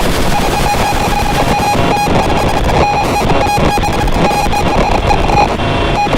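Eurorack modular synthesizer noise music: a loud, dense wall of distorted noise with a pulsing high tone and rapid clicks running through it.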